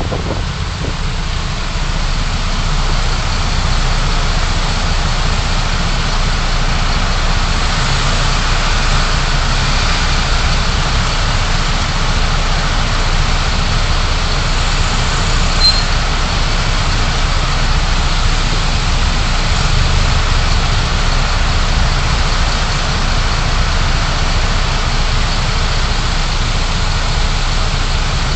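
Steady driving noise from a car picked up by a dashcam: a low engine and road hum with a fainter hiss above it, level throughout.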